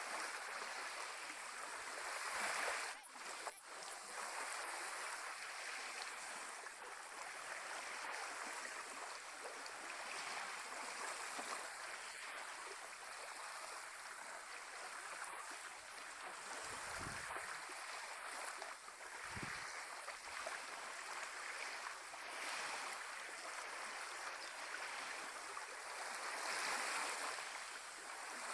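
Caribbean sea washing against the shore in a steady hiss of small waves that swells and eases, with two low thuds about two-thirds of the way through.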